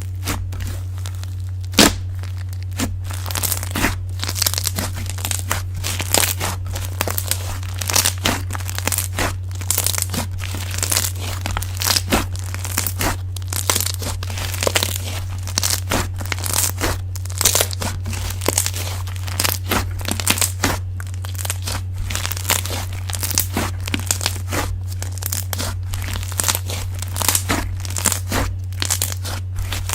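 Slime being squeezed and stretched by hand, making dense crackling, popping clicks that grow busier after the first few seconds. A steady low hum runs underneath.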